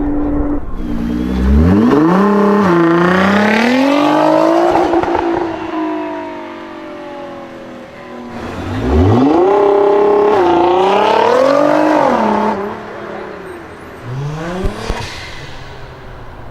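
Nissan GT-R R35's twin-turbo V6 accelerating hard twice, its pitch climbing, dipping briefly at an upshift, then climbing again before fading. A shorter rise in revs follows near the end.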